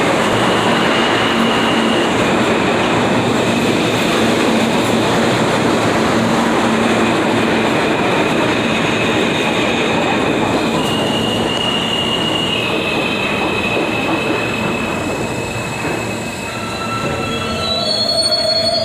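New York City subway F train running, with steady rumbling wheel and track noise and high steady wheel squeals that come and go. Several squeal tones sound together near the end.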